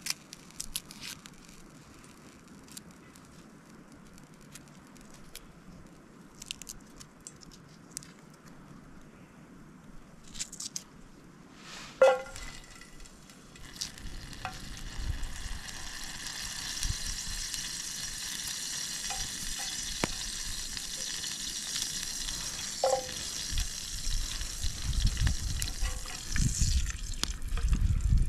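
Garlic cloves frying in hot oil in a small camping pan. Small knife clicks come first, then a sharp metal clink about halfway through, and a steady sizzle builds after it and holds to the end. A second clink comes later, and there are low bumps near the end.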